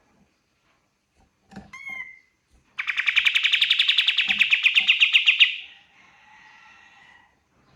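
Kapas tembak songbird singing: a short call, then a loud, rapid trill of about ten notes a second lasting nearly three seconds, trailing off into a quieter warble.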